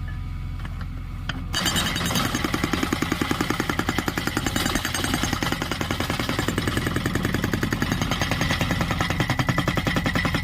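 JCB 3DX backhoe loader's diesel engine running steadily. About a second and a half in, its hydraulic rock breaker starts hammering in a fast, even rhythm of several blows a second, and keeps going.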